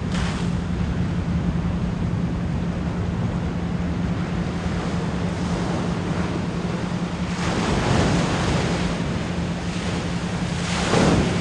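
Ocean waves washing in, with louder surges about seven and eleven seconds in, over a steady low 174 Hz pure tone.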